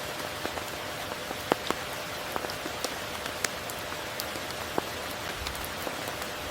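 Steady rain falling, an even hiss with many separate drops ticking close by, a few of them louder.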